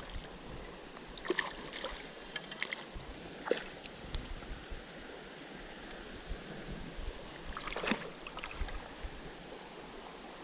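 Steady rush of creek water, with a few short clusters of knocks and rustles: about a second in, a single knock partway through, and another cluster near the end.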